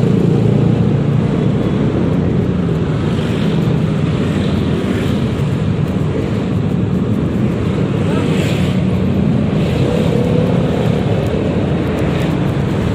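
Yamaha XMAX 300 scooter's single-cylinder engine running steadily while riding in traffic, with road and wind noise on the rider's microphone.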